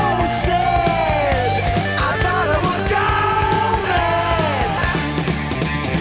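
1970s hard rock recording: drums and bass keep a steady beat while a lead melody slides and bends in pitch above them.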